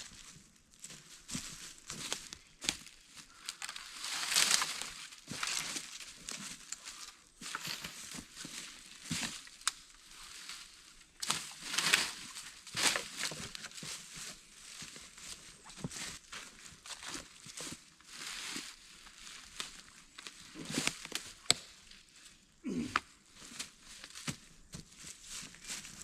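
Irregular knocks and rustling of cut firewood logs being handled and loaded, with scuffing through dry leaves and brush. There is a denser rustle about four seconds in and again near the middle.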